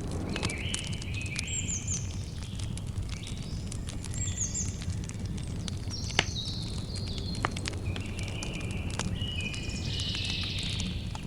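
Campfire crackling and popping steadily over a low fire rumble, with a sharper pop about six seconds in. Birds chirp repeatedly, in short calls and quick falling notes.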